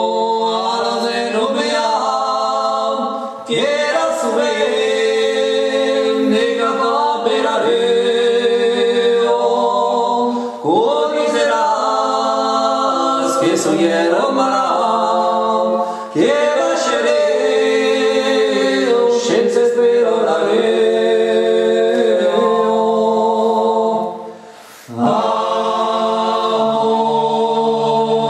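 A small group of men singing a cappella in several-part harmony, holding long chords over a sustained low note, with brief pauses between phrases.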